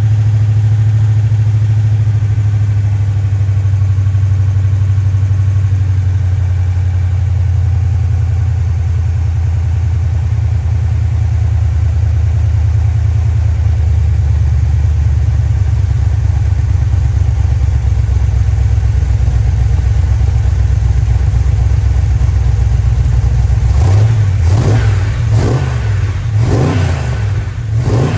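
Freshly rebuilt Chrysler 318 V8 running steadily, then revved up and down several times in the last few seconds.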